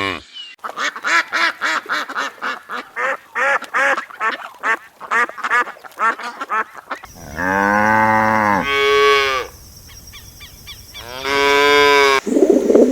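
Farm animals calling: a quick run of short honking calls, about three to four a second, then a few longer, drawn-out calls.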